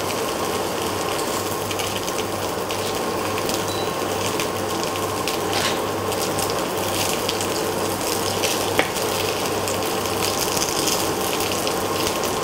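Potato patties shallow-frying in oil in a nonstick pan: a steady sizzle as a spatula turns them, with a single sharp click about nine seconds in.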